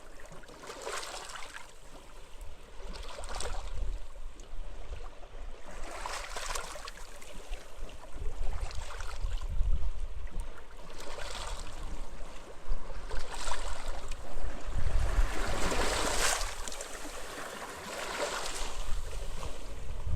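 Small sea waves washing onto a beach, a hissing swash of surf coming every one to two seconds, the strongest about sixteen seconds in. Under it runs a low, uneven rumble of wind.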